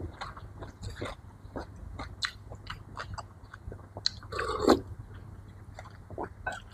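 Close-miked eating: chewing and biting food, with many short wet mouth clicks and crunches. One louder, longer mouth sound comes about four and a half seconds in.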